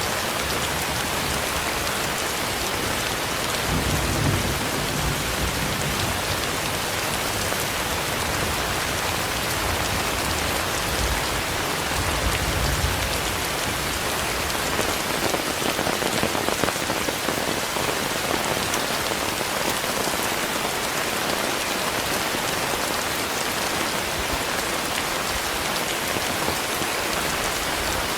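Heavy rain falling steadily, a dense even hiss. Two deeper low rumbles come through it, about four seconds in and again about twelve seconds in.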